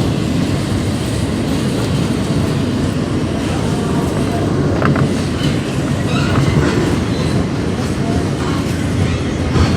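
New York City subway train running between stations, heard from inside the car: a steady rumble of wheels on track with some clickety-clack and brief faint squeals.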